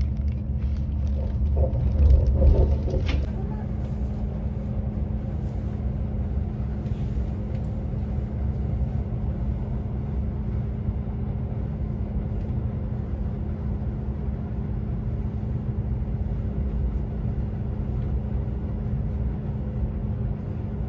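Deutsche Bahn ICE high-speed train running at speed, heard from inside the passenger cabin: a steady low rumble with a constant hum. It is louder for the first three seconds, then runs evenly.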